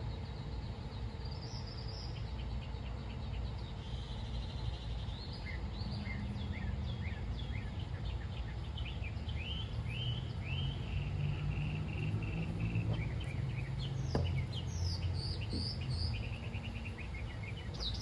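Birds chirping in quick series of short high notes, over a steady low background rumble, with a single sharp click about fourteen seconds in.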